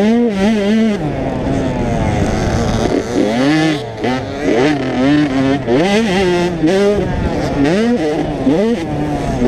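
85cc two-stroke motocross bikes revving on the track, their engine pitch climbing and dropping again and again as they accelerate, shift and back off, with more than one engine heard at times.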